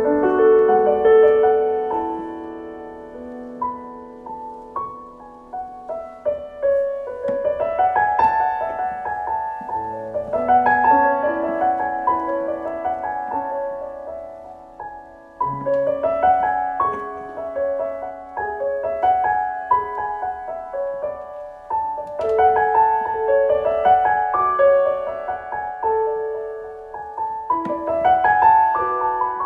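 Piano music: a gentle piece of quick, rippling broken-chord figures over a few sustained low notes.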